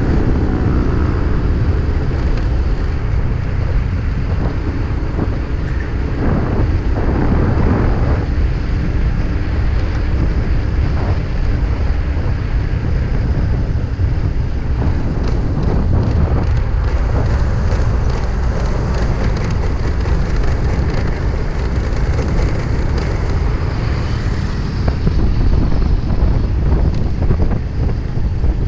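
Motorcycle riding at speed, with steady wind noise on the microphone over the engine and road rumble.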